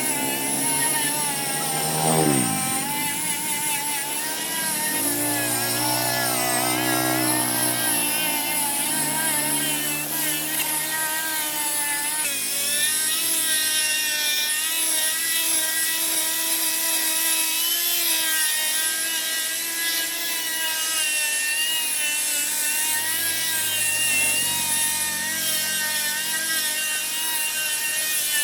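A motor running steadily. Its pitch drops sharply and climbs back about two seconds in, then wavers up and down.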